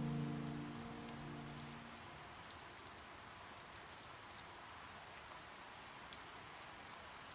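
Steady rain falling, with scattered single drops ticking sharply now and then. A low held chord at the end of the music fades out in the first two seconds.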